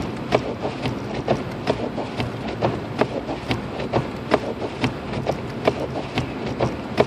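Turn-signal indicator ticking in the cabin of a Lexus IS250 AWD, a steady clicking about two to three times a second, over low road and engine noise while driving through snow.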